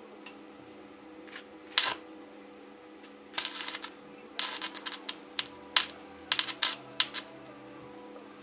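Sharp metallic clinks and clatter of small steel parts or tools being handled and set down, a single clink about two seconds in, then a run of them near the middle and later part, over a steady low hum.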